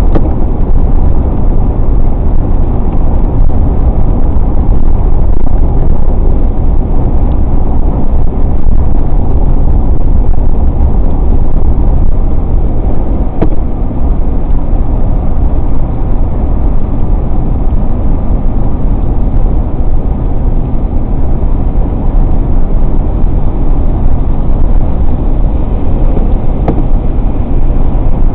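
Car driving on a wet highway: steady, loud, low road noise from the tyres, engine and wind, with no change in speed.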